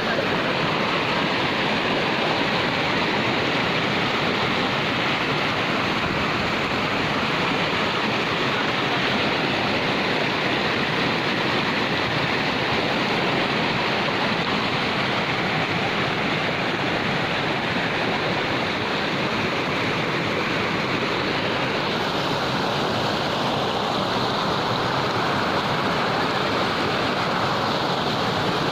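Waterfall: water falling and crashing in a loud, steady rush.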